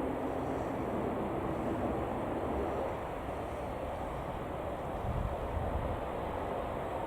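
Steady rumble and hiss of a jet airliner's engines running at taxi power, swelling slightly in the low end about five seconds in.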